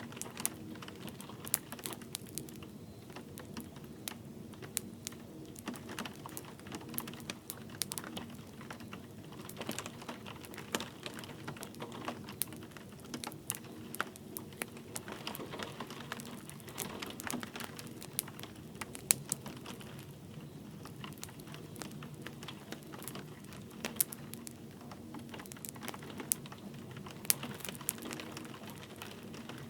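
Wood fire crackling with irregular sharp pops over a steady low hiss, blended with light rain pattering.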